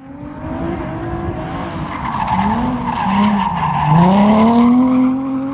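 Drift car on track: the engine revs up and down, dips about four seconds in and then climbs steadily, over the hiss of skidding tyres.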